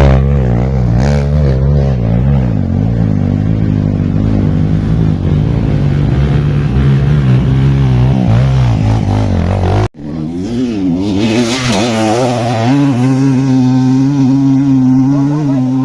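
Off-road motorcycle engines revving hard, the pitch rising and falling, with an abrupt break about ten seconds in; after it an engine revs again and then holds a steadier note.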